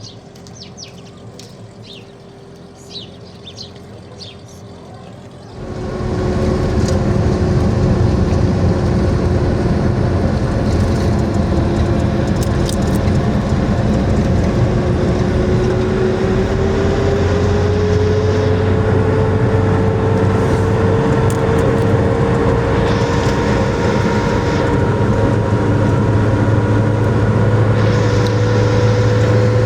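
Birds chirping over a quiet background, then, about five seconds in, a motor vehicle engine suddenly comes in loud and runs steadily, its pitch slowly climbing.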